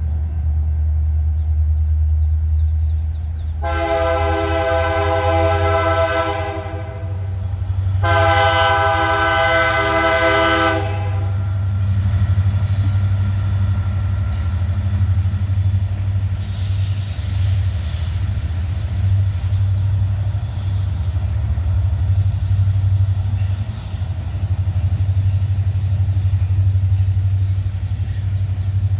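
Long freight train passing with a steady heavy rumble. The locomotive's air horn sounds two long blasts, one about four seconds in and one about eight seconds in.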